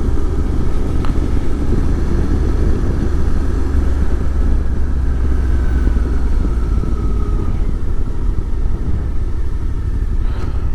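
Motorcycle riding at road speed: a steady engine and road rumble throughout, with a faint whine that dips slightly in pitch about halfway through.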